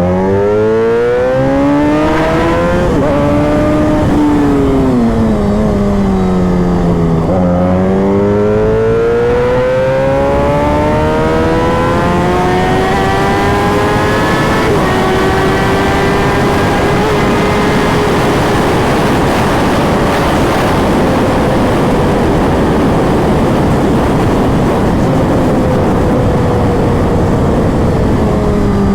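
Kawasaki ZX-10R inline-four through an aftermarket exhaust, ridden under throttle. The revs climb in the first couple of seconds, drop back, then build again through about 14 s before a shift, then hold high and ease off near the end.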